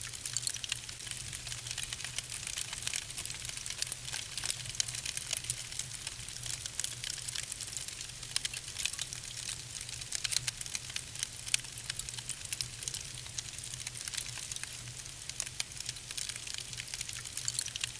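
Wood fire burning in a fireplace, logs crackling and popping continually with many sharp little snaps over a soft steady hiss.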